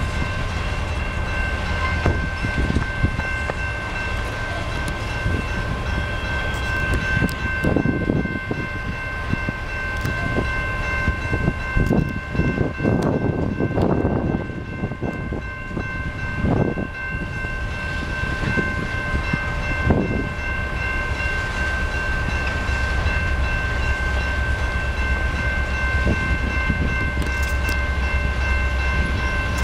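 Loaded coal hopper cars of a BNSF coal train rolling past, the wheels knocking over rail joints several times over a steady low rumble. A set of steady high ringing tones runs through it.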